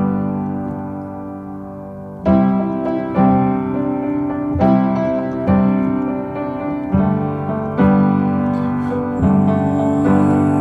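Instrumental music: piano chords played slowly, a new chord struck about every second, after the sung lines of a pop song.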